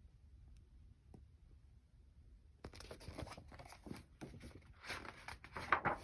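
Paper rustling and crinkling as a picture-book page is handled and turned. It starts about two and a half seconds in, after a few faint clicks, and goes on as a run of short rustles.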